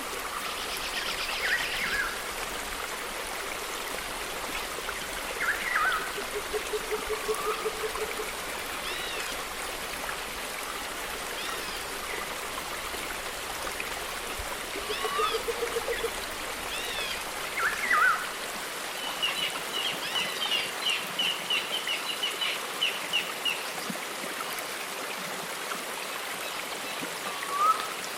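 Running-water ambience with assorted bird calls: scattered gliding chirps, a short low trill heard twice, and a fast repeated high chatter for several seconds from about two-thirds through.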